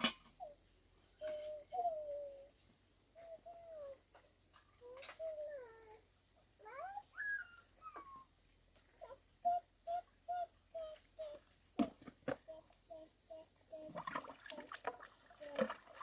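Steady high chorus of crickets, with short rising and falling animal calls over it, a run of quick repeated notes in the middle, and a few sharp knocks.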